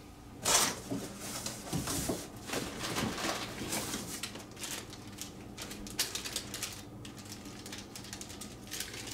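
Packaging rustling and crinkling, with irregular clicks and taps as small kit parts are handled and unwrapped.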